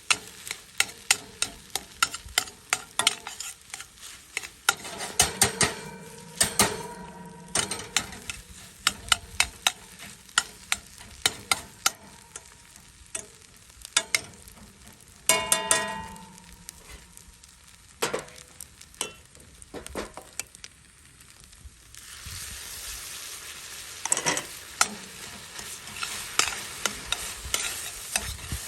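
Fried rice being stir-fried in a pan: a metal utensil clacks against the pan many times over steady sizzling, and the pan rings briefly now and then.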